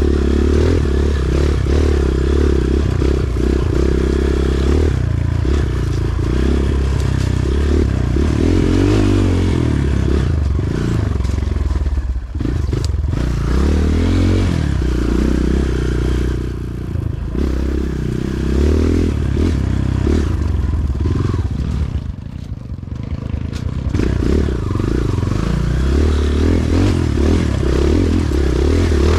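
Kawasaki KLX140G trail bike's single-cylinder four-stroke engine running under changing throttle while riding. It eases off briefly three times, a little before the middle, around the middle and about three-quarters through.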